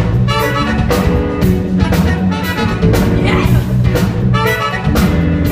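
Live soul-funk band playing an instrumental passage between sung lines: a horn section of trumpet and saxophone playing short riffs over bass and a drum kit keeping a steady beat.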